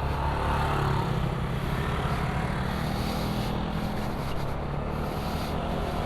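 Motor scooter's engine running steadily while riding, under a constant rush of road and wind noise.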